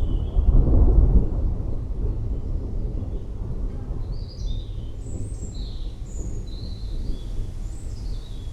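A thunderclap rumbling, loudest about a second in, then rolling on as a long low rumble. Birds chirp over it in the second half.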